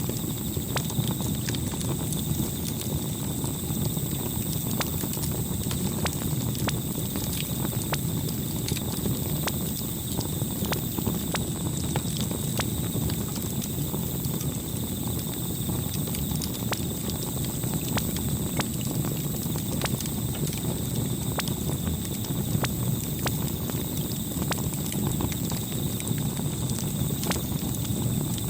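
Wood campfire crackling: irregular sharp pops and snaps over a steady low rush of burning, with faint steady high-pitched tones above it.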